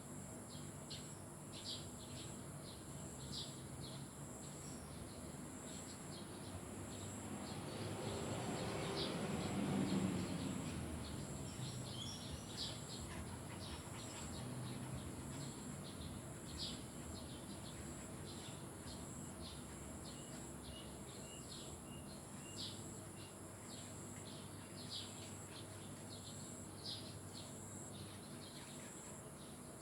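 Birds chirping in short, repeated calls over a steady high insect drone. About a third of the way in, a broad rushing noise swells up and fades away.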